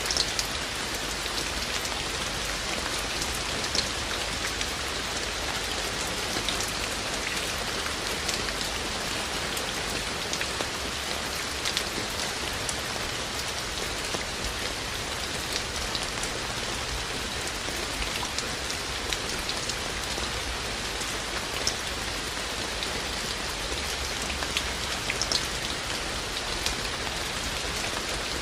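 Steady rain falling: a constant hiss with scattered sharp ticks of single drops landing close by.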